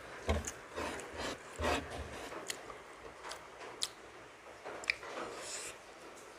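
A person eating milkfish and rice close to the microphone: wet chewing with scattered short mouth clicks and smacks.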